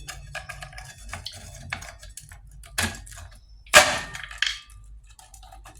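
Hard groundnut (peanut) brittle being snapped by hand: a run of small crackles and clinks with a few sharp cracks, the loudest just under four seconds in.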